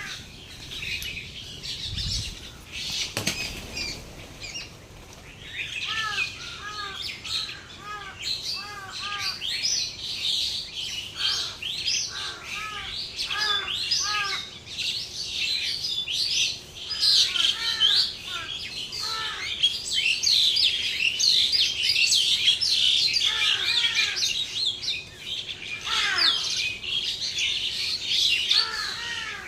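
Many small birds chirping continuously in a dense chorus, with a lower arched call repeated in quick pairs through the middle. The chorus gets louder about halfway through.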